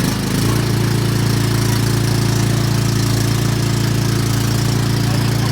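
Gasoline lawn mower engine running steadily just after starting, settling to an even speed about half a second in.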